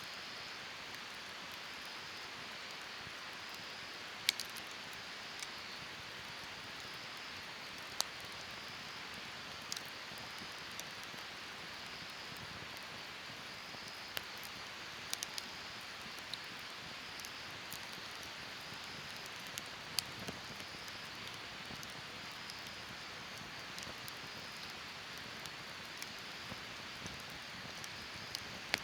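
Wood campfire burning: a steady hiss with scattered sharp crackles and pops. The loudest come a little over 4 s in and about 20 s in.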